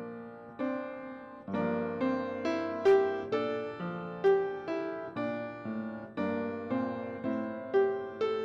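Solo piano playing a slow prelude: struck notes and chords, each fading away before the next.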